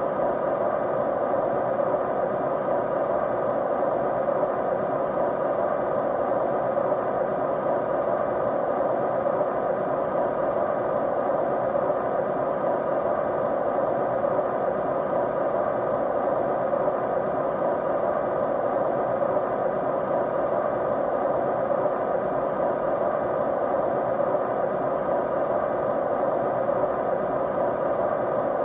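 Steady white noise: an even, unbroken hiss with its weight in the low middle range and no change in level.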